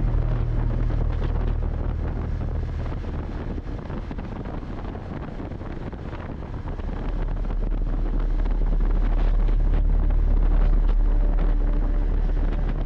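Wind rushing over the microphone of a moving motorcycle, over a steady low rumble. It eases off in the first few seconds and swells again about halfway through.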